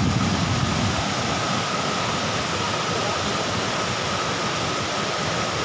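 Bomburu Ella waterfall pouring: a steady rush of falling water. A low wind rumble on the microphone fades out in the first second.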